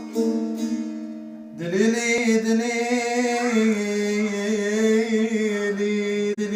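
A plucked string instrument plays a few held notes, then a singer enters about a second and a half in with a long, loud, wavering ornamented note in the Iraqi Muhammadawi singing style.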